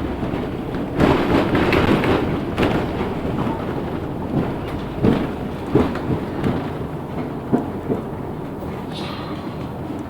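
Cabin noise on board a LiAZ 6213 articulated city bus under way: a steady rumble with a burst of rattling in the first few seconds, then a string of separate knocks and thumps before it settles again.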